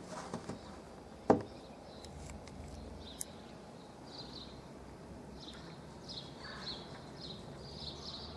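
Small birds chirping in quick, repeated short calls over a steady low outdoor hiss, with one sharp knock about a second in.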